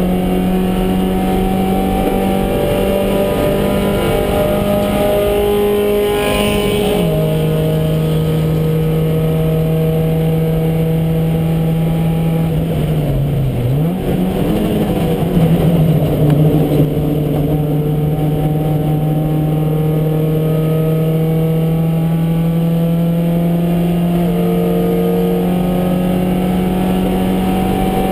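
Porsche 924 race car's four-cylinder engine pulling hard at high revs, heard from inside the cabin over road and wind noise. The engine note drops about a quarter of the way in, dips briefly and climbs back in the middle, and steps up again near the end.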